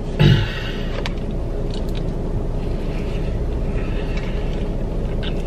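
Steady low rumble of an idling car heard inside the cabin. A brief low, falling hum from a person comes about a quarter second in, and faint eating sounds follow.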